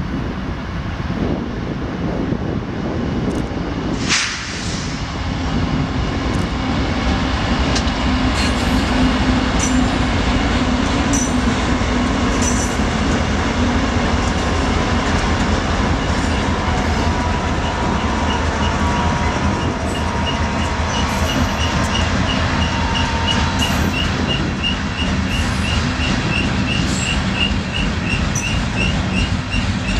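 Loaded CSX freight train (a garbage train) rolling past: a steady rumble and clatter of wheels on rail that builds over the first few seconds, with scattered sharp clicks. From a bit past halfway a high wheel squeal pulses about three times a second.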